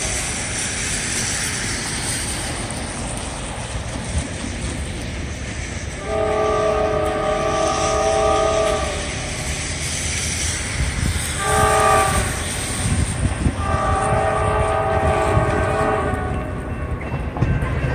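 CSX freight locomotive's multi-note air horn sounding a long blast, a short one and another long one, the end of the grade-crossing signal, over a steady hiss. Beneath it the train's rumble and wheel clatter grow toward the end.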